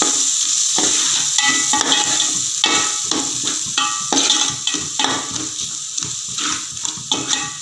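Onion-tomato masala with chilli powder sizzling in oil in a metal pot, stirred briskly with a metal spoon that scrapes and clinks against the pot again and again.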